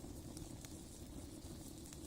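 Wood fire in a brick rocket stove crackling, with scattered irregular small pops over a low steady rumble.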